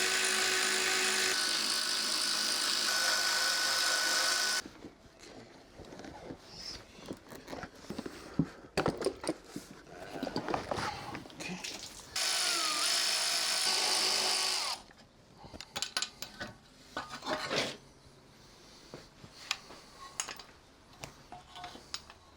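Handheld power tool running steadily while undoing bolts: it stops about four and a half seconds in, then runs again for about two and a half seconds around twelve seconds in. Between and after the runs come scattered metallic clicks and knocks of bolts and tools being handled.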